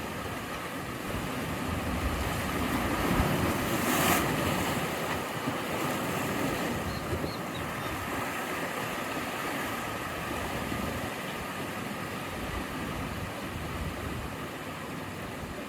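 Sea waves washing in as a continuous rush, one wave swelling and breaking about three to four seconds in, with wind buffeting the microphone.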